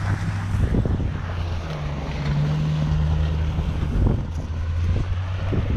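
Wind buffeting the microphone over a vehicle engine's low, steady hum.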